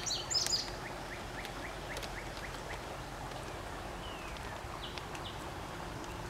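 Outdoor birdsong: a burst of rapid, high chirping song in the first half second, then a faint run of short repeated chirps, about four a second, and a few scattered calls over a steady background hiss.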